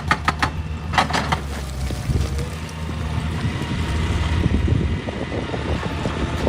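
Excavator engine running with a steady low rumble. A fast clatter of about seven clicks a second dies away in the first half second, and a short burst of clatter comes about a second in. Wind noise on the microphone.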